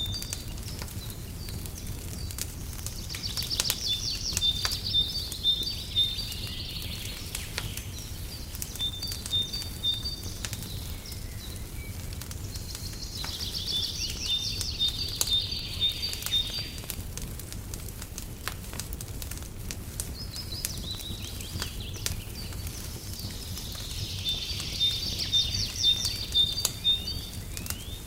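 Wood fire crackling in a fireplace, scattered pops and clicks over a steady low rumble. A songbird sings a high, trilling phrase three times, about every ten seconds, with a few short whistled notes in between.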